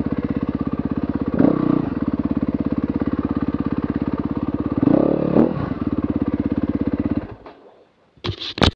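Enduro motorcycle engine idling with an even pulse, with two brief louder surges, about a second and a half in and again about five seconds in. The engine cuts out about seven seconds in, and a short clatter follows near the end.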